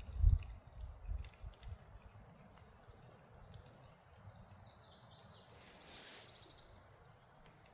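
A songbird sings two short high trills of quickly repeated notes over faint forest background. A few low thuds come near the start, the first of them the loudest sound.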